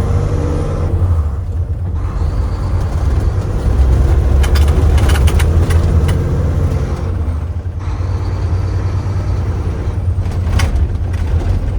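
Heavy truck engine running under way inside the tractor's cab, a deep rumble whose level drops briefly twice. A few short sharp sounds break in, clustered around the middle and once more near the end.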